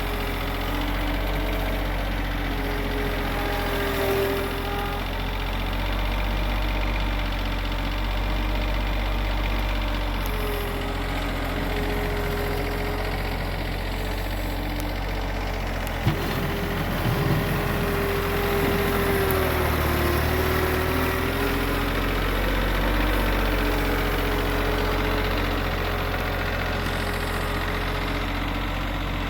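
Loader tractor's engine running steadily as it works snow, its pitch rising and falling a little with throttle. A sharp knock about sixteen seconds in, followed by a short stretch of rougher rumbling.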